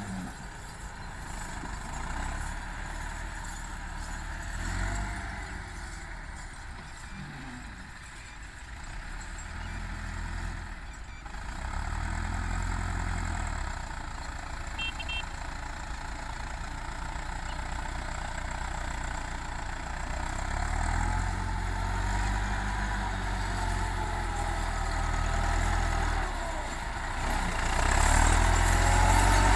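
Massey Ferguson 385 tractor's diesel engine running, its note rising and falling as the load changes, and growing louder near the end.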